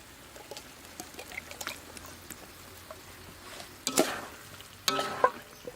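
Canned fish frying and being stirred in a pan, with faint sizzling and small utensil clicks. There is a louder scrape or clatter about four seconds in and another just after five seconds.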